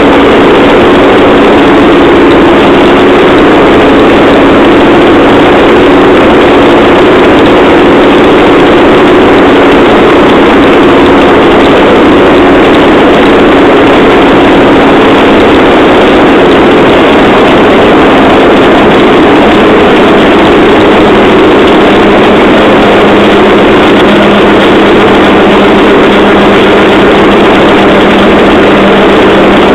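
Engine of a rail trolley running steadily under way, a loud continuous drone with a low hum that dips slightly in pitch about two-thirds of the way through.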